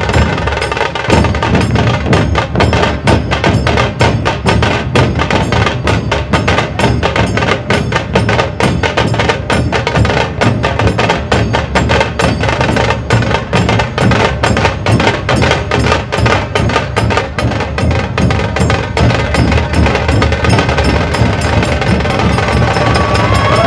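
Dhol tasha ensemble playing: big barrel-shaped dhol drums beat a steady low rhythm under fast, sharp strokes of the tasha drums, packed close together.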